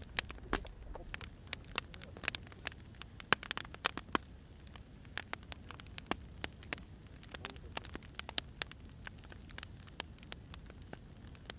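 Burning firewood crackling: irregular sharp pops and snaps, several a second and densest in the first few seconds, over a low steady rumble.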